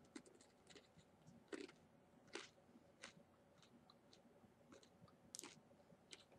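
Faint crunching and chewing of a cheese almond rice cracker (senbei topped with cheese cream and almond), with a crisp crunch every second or so, eight or so in all.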